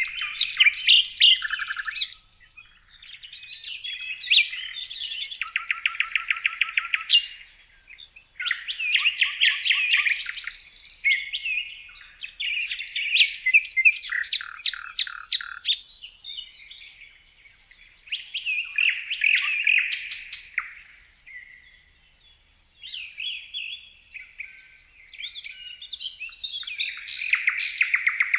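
Songbird song: bouts of rapid chirps and trills, each a few seconds long, with short pauses between them.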